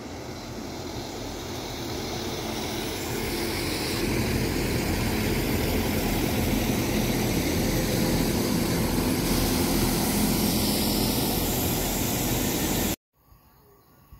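Northern diesel multiple unit passing on the far line: engine and wheel rumble growing louder over the first few seconds, then holding steady until it cuts off suddenly near the end.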